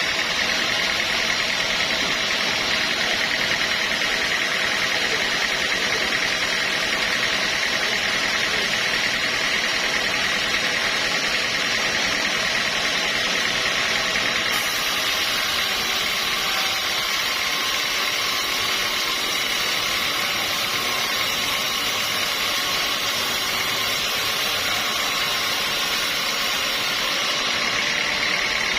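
Sawmill machinery running steadily, giving a continuous mechanical noise with a high ringing tone.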